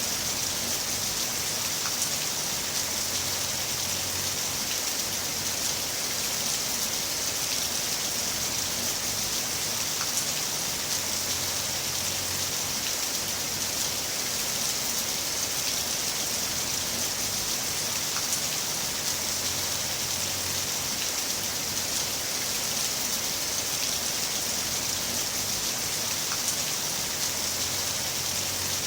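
Heavy rain falling steadily, an even hiss of rain on a surface with scattered individual drops ticking through it.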